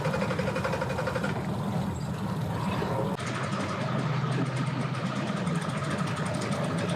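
An engine idling steadily, its low hum changing abruptly about three seconds in.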